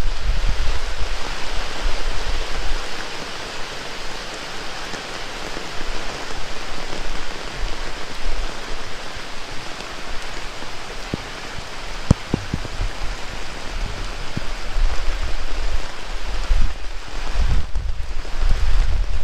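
Heavy rain falling in a steady hiss, with gusts of wind rumbling on the microphone near the start and again near the end. There is a single sharp tap about twelve seconds in.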